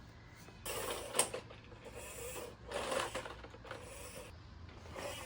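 Irregular rubbing and scraping handling noises in a few short bursts, with a light knock about a second in.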